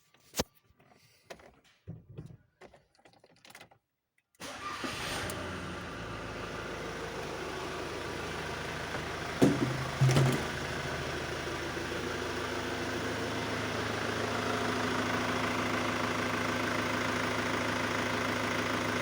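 A few faint clicks, then a vehicle engine starts about four seconds in and settles into a steady idle, with two short loud knocks near the middle. The ignition timing has just been adjusted. It idles fairly quietly, and the owner says the knocking ring remains only when revved.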